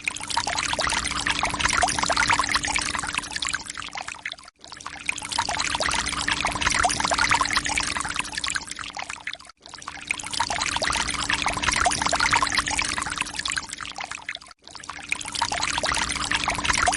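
Water pouring and splashing steadily over a faint low hum, broken by a brief silent gap about every five seconds.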